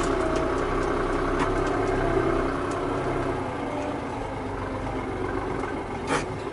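Tractor diesel engine running steadily at low revs, easing slightly quieter a few seconds in, with one short click near the end.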